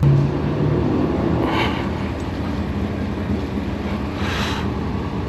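Straight-piped BMW S55 twin-turbo inline-six of a 2018 F80 M3 Competition running at low, steady revs, its note dropping slightly about a second in. Two brief swells of hiss rise over it, about a second and a half and four seconds in.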